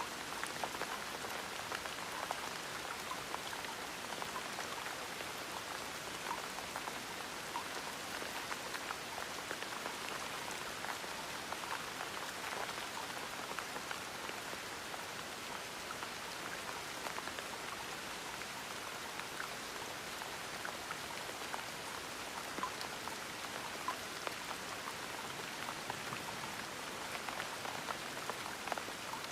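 Gentle steady rain, a soft even hiss with many small drops pattering and ticking on a surface.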